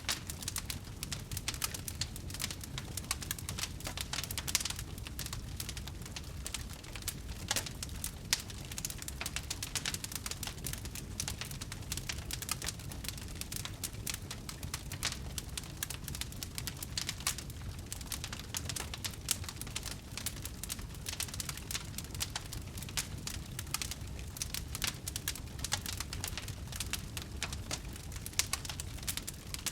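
Wood fire crackling: a dense, irregular patter of small snaps and pops over a low steady rumble, with a few louder pops scattered through.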